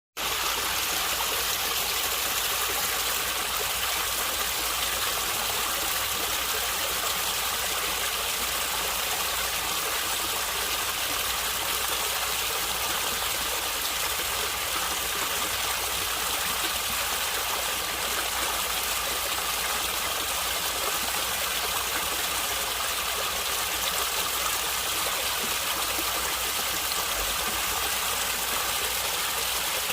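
Stream water flowing and gurgling, a steady, unbroken rush of water.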